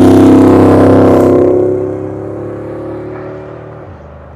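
Car engine running loud with a steady note, then fading and easing down in pitch after about a second and a half, with a further drop near the end.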